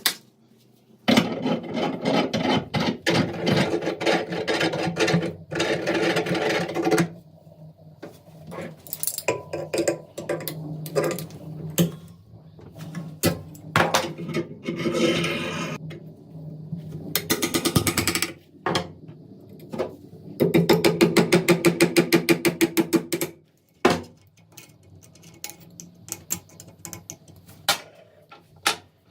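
Hand-tool work on metal parts: several stretches of scraping and rubbing a few seconds long, one near the end with a fast, even stroke rhythm, with separate clicks and knocks in the gaps between.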